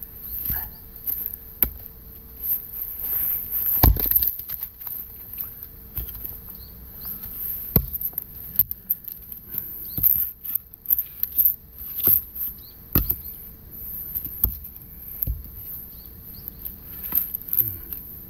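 Axe blows and knocks on firewood logs, coming irregularly every one to three seconds, the hardest about four seconds in and again near thirteen seconds.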